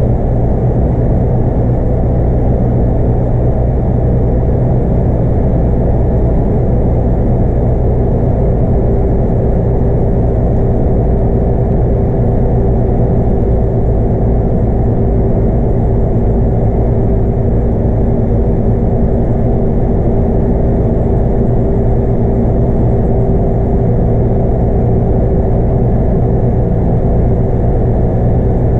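Scania K230UB bus's 5-cylinder 8.9-litre diesel engine and drivetrain running steadily under way, heard from on board with deep road rumble. A steady whine joins about eight seconds in and holds.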